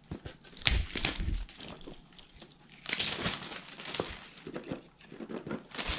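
Packaging being opened by hand: irregular crinkling and rustling, with a few sharp clicks and knocks.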